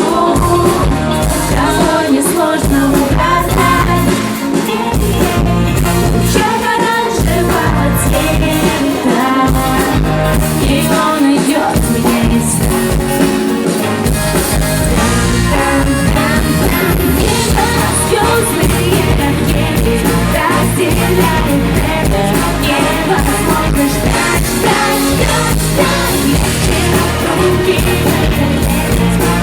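Live pop-rock concert music: a band with drums and bass playing loudly through a PA while a woman sings the lead vocal.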